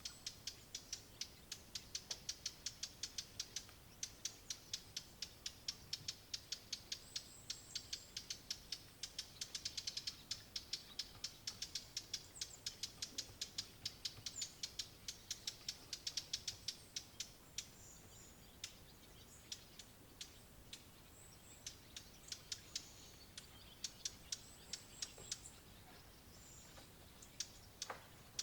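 A bird, which the recordist takes for a Eurasian blackcap, giving hard, dry 'tac' alarm calls over and over at about four a second, the sound of an agitated, scolding bird. The calls come a little less often in the second half.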